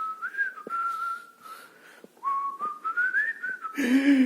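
A person whistling a tune in short melodic phrases, with a pause in the middle. Near the end there is a brief louder sound with a low falling tone.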